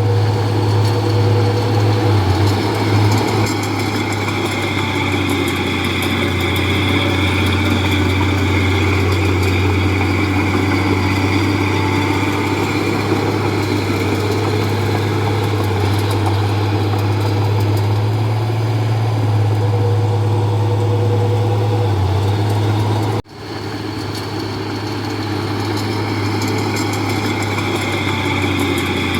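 Komatsu D31P crawler bulldozer's diesel engine running steadily with a constant low hum, broken once by a sudden brief dropout about three-quarters of the way through.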